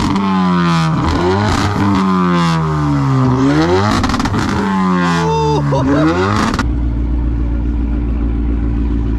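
Car engine revved over and over, its pitch climbing and falling every second or so. About two-thirds of the way through it cuts abruptly to a steady, even engine drone.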